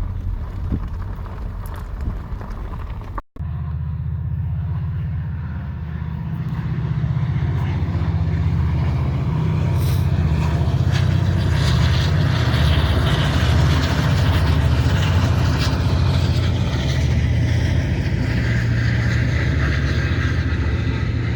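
A short train passing close by: the deep, steady engine note of a diesel locomotive, with the noise of the wheels on the rails building from about a third of the way in and staying loud.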